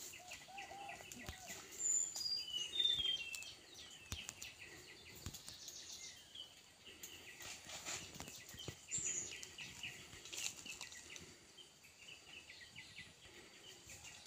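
Small birds chirping in short repeated notes, with a brief run of falling whistles about two to three seconds in, and faint crackles of dry leaves.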